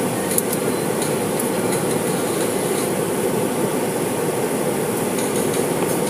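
Automatic car wash equipment running, a steady loud rumble with a hiss above it and a few faint ticks.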